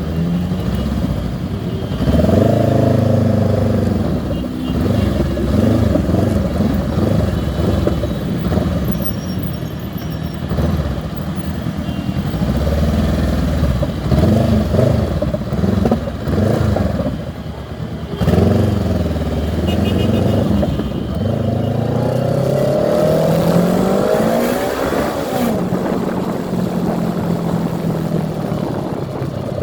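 Several motorcycle engines running together, their pitches rising and falling as they rev and change speed. About three quarters of the way through, one engine revs up in a long rising pitch.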